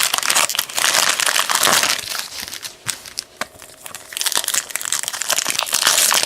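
Trading-card pack wrappers crinkling and tearing as hanger packs are opened. The crinkling is dense for the first couple of seconds, eases off with a few light clicks, then picks up again near the end.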